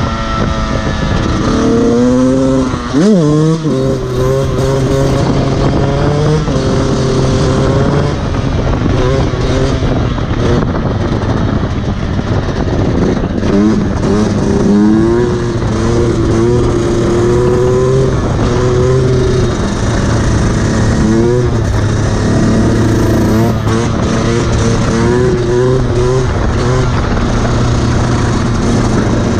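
Fantic XE 125 two-stroke enduro motorcycle engine revving up and dropping back again and again, with a sharp rev about three seconds in, over wind and tyre noise.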